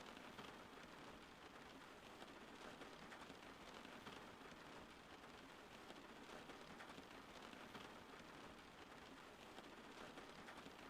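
Faint steady rain, a dense patter of many small drops over an even hiss.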